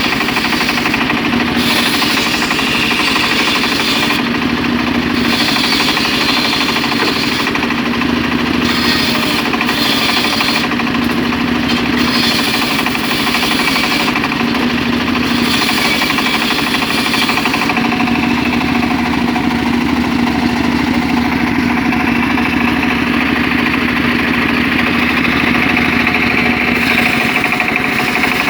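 Engine of a homemade circular saw rig running steadily while its blade rips mahogany, the higher cutting noise coming and going in stretches of a second or a few seconds, then holding steadier in the later part.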